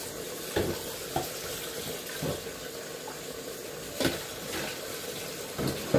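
Kitchen tap running steadily, with a few short knocks of pots or utensils handled nearby.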